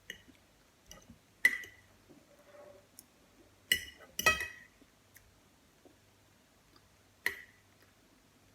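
Cutlery clinking against a plate while eating: four or five sharp, briefly ringing clinks, two of the loudest close together near the middle.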